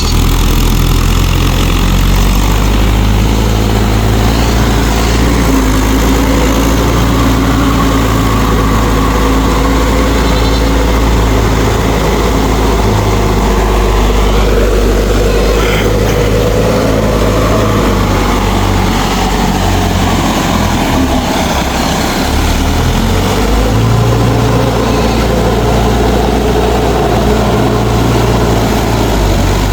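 Mahindra 4WD tractor's diesel engine running steadily and loudly, its low note shifting briefly about two-thirds of the way through.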